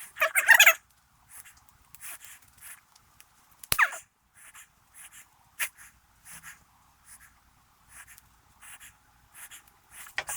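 A dog whining once, then a long run of short sniffs, about two a second, with a quick falling squeak about four seconds in.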